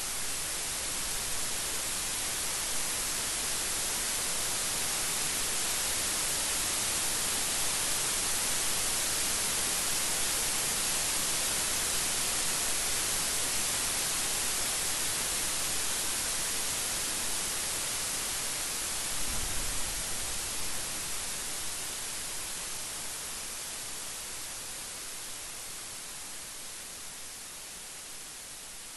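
Steady rain falling as an even hiss. About two-thirds through there is a brief low rumble, and the rain grows slowly quieter toward the end.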